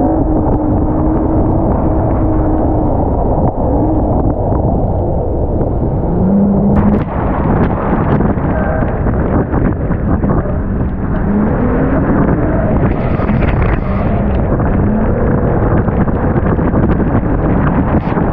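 Jeep Gladiator's engine revving up and down repeatedly under a heavy, rough rumble, with frequent sharp pops and crackles.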